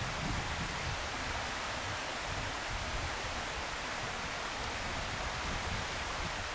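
Steady outdoor background noise: an even hiss with an unsteady low rumble underneath.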